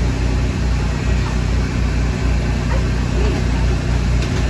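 An engine running steadily: a loud, low, evenly pulsing hum.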